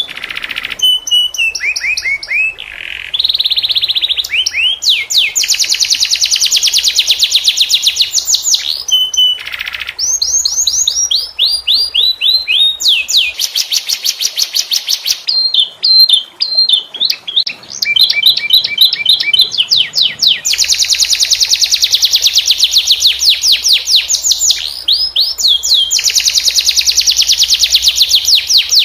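Domestic canary singing continuously: long, fast trills (rolls) of rapidly repeated notes alternating with downward-sweeping whistled notes, in phrases separated by brief pauses.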